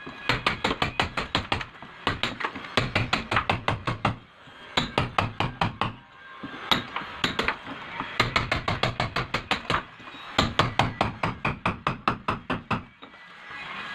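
Hand hammering into a masonry wall to chip out a recess for a shower valve: rapid sharp strikes, about six a second, in runs of one to two seconds with short pauses between.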